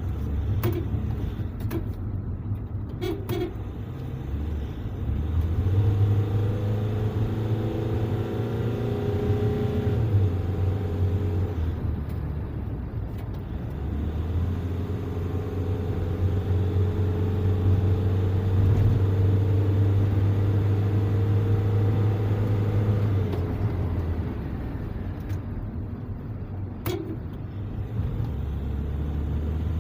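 A vehicle's engine and drivetrain running with a steady low hum, growing louder in two long stretches, with a few sharp clicks near the start and near the end.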